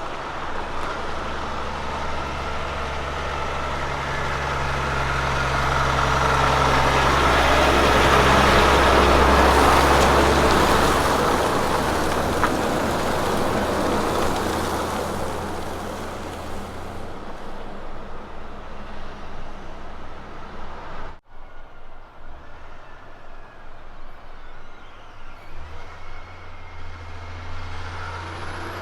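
Road train truck driving past: its diesel engine hum and tyre noise build to a peak about nine seconds in, then fade away. After a sudden cut about two-thirds of the way through, another truck engine is heard running at a lower level.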